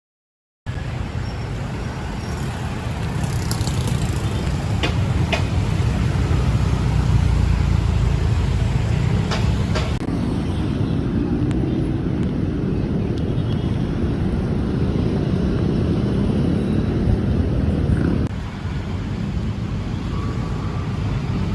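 Steady low rumble of road traffic, with a few sharp clicks in the first ten seconds and abrupt shifts in the noise about ten and eighteen seconds in.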